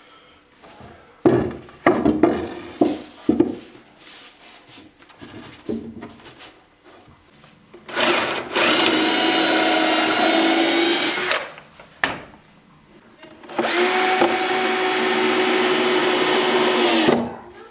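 Electric drill running steadily in two runs of about three and a half seconds each, two seconds apart, after a handful of sharp knocks on the workpiece.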